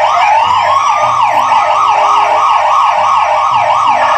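Police siren in fast yelp mode, a rising wail repeating about three times a second, with a second, slower rising tone over the first second or so.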